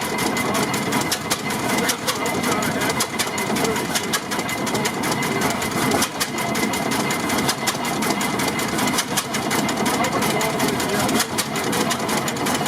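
1927 Eagle 40 HP tractor engine running steadily, with a rapid, busy mechanical clatter from its moving parts.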